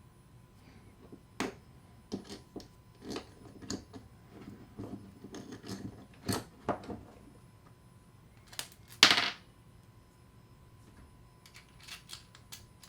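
Metal parts of a disassembled star drag fishing reel being handled and set down: irregular clicks and taps, with a louder clatter about nine seconds in.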